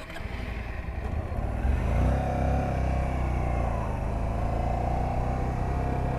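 Honda Varadero 125's small V-twin engine running as the motorcycle pulls away, growing louder over the first two seconds and then holding steady.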